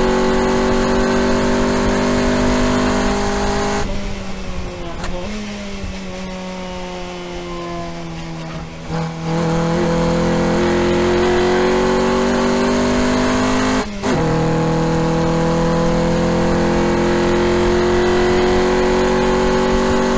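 Honda Civic EG's swapped B18B1 four-cylinder with aftermarket header and exhaust, heard from inside the cabin while lapping. It runs hard at high revs, the throttle comes off about four seconds in and the revs fall away, it comes back on the power around nine seconds and climbs, with a brief break about fourteen seconds in for a gear change before pulling steadily again.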